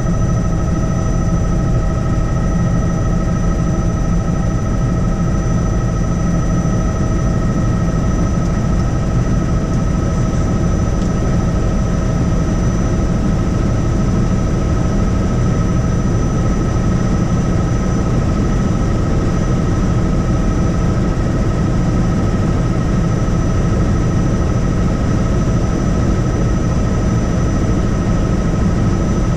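Helicopter in flight: a steady, dense rotor and engine rumble with a constant high whine over it, unchanging throughout.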